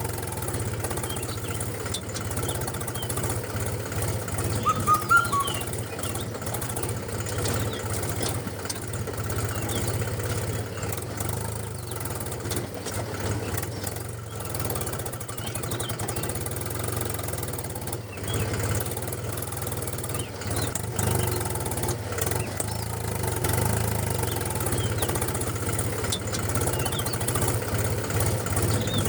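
A motor running steadily with a low hum, with faint clicks over it.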